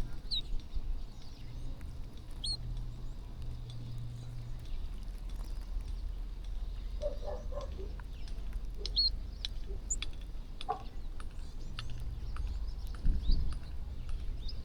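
A flock of birds feeding, giving scattered short high chirps now and then, with many light pecking clicks. A steady low hum runs underneath.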